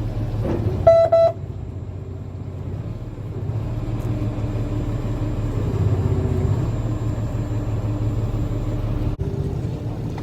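A fishing boat's engine running steadily with a low drone. A short beep sounds about a second in.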